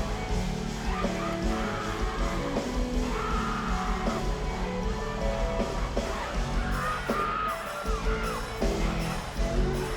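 High school marching band playing, brass over a steady drum beat, with yells and whoops over the music.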